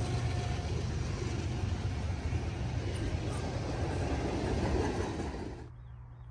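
CN freight train rolling past, a steady rumble and rattle of wheels on rail, which cuts off suddenly near the end, leaving a faint low hum.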